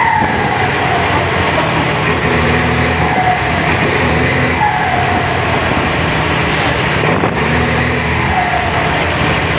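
Mercedes-Benz 1721 bus's turbo-diesel engine running steadily, its turbocharger, modified with a 'pente' job to make it sing, whistling in a tone that slides down in pitch four times.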